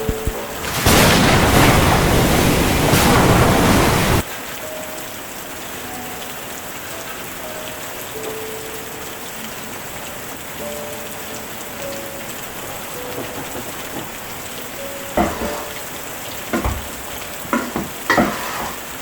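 Heavy rain, loud for the first few seconds, then cutting off sharply to a softer, steady rain. A few sharp knocks come near the end.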